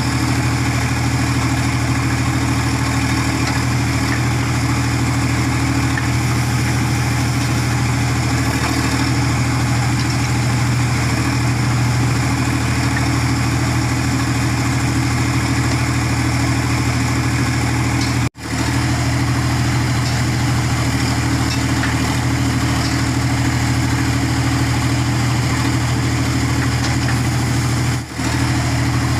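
Sonalika 47 hp tractor's diesel engine running steadily as it powers a backhoe loader attachment. The sound breaks off for an instant about two-thirds of the way through and again near the end.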